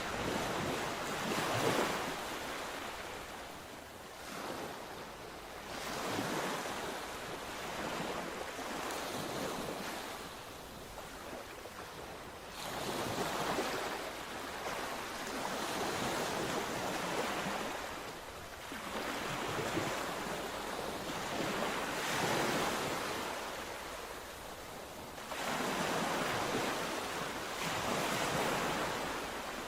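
Mediterranean sea waves breaking on the shore, a surge of surf every three to four seconds that swells and then washes back.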